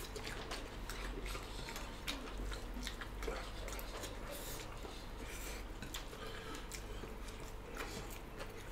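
Close-miked chewing and mouth sounds of two people eating rice and smoked pork with their hands, with irregular small wet clicks and smacks.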